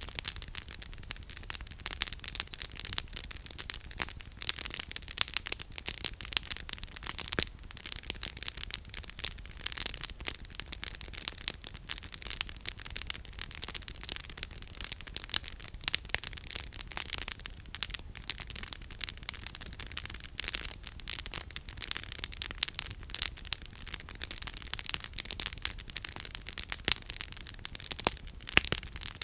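Firewood crackling in a campfire: a dense, irregular run of sharp snaps and pops, with a few louder cracks scattered through.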